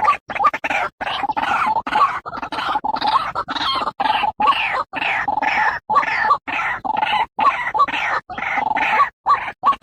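White-breasted waterhen calling: a harsh, croaking note repeated over and over, about two or three a second with short breaks between, as used in a lure call to attract the birds.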